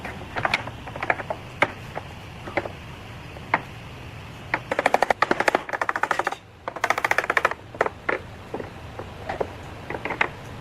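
Scattered sharp clicks and knocks, with two fast runs of rapid clicking a little before and after the middle, like a tool or object being worked against wood.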